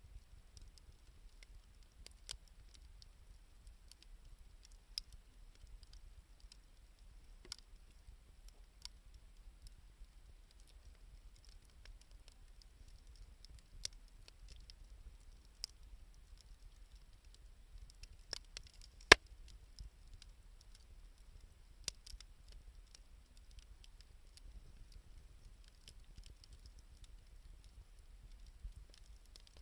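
Wood fire of reused 2×4 lumber and scrap wood crackling, with scattered sharp pops at irregular intervals and one louder pop a little past the middle.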